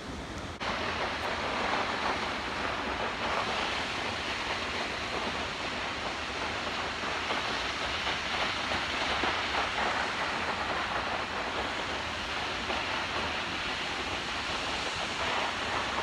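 Waterfall rushing: a steady, dense hiss of falling water that jumps abruptly louder just after the start and then holds even.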